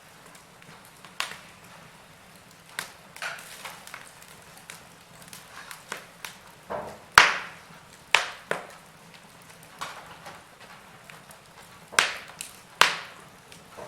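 Burning logs in a fireplace crackling, with irregular sharp pops over a faint steady hiss of the fire; the loudest pops come about seven seconds in and twice close together near the end.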